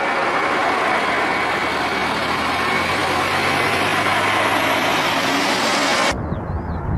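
Aircraft jet engine noise, a loud steady rushing sound that starts and cuts off abruptly about six seconds in.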